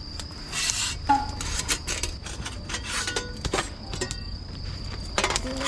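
Scattered clicks, taps and scrapes of camp gear being handled, over a steady high cricket trill.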